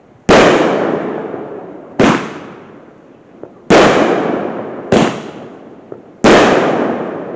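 Fireworks going off: five sharp bangs, one every second or two, each trailing off over about a second.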